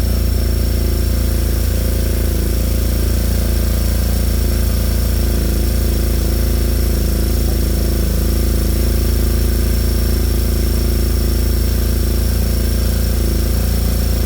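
Pit bike's 140cc single-cylinder four-stroke engine running steadily and loudly.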